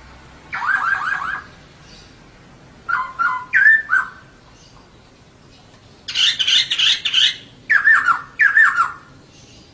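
Female poksay (laughingthrush) calling in four short bursts of quick, falling whistled notes. The third burst, about six seconds in, is harsh and chattering.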